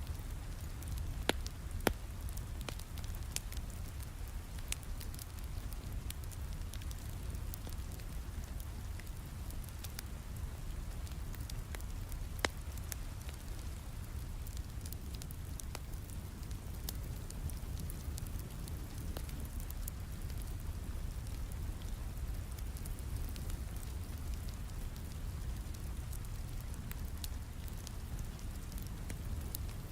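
Steady rain with a wood fire crackling, and a low rumble underneath. Scattered sharp pops from the fire come through, the loudest twice near the start and once around the middle.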